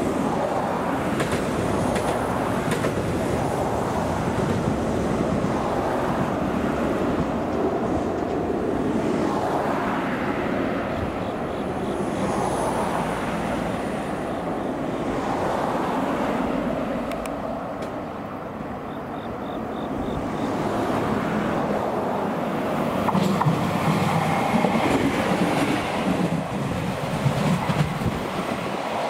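JR West DEC700 single-car diesel-electric railcar running along the track and passing, its engine and its wheels on the rails giving a steady noise, with a deeper engine sound strongest in the last few seconds.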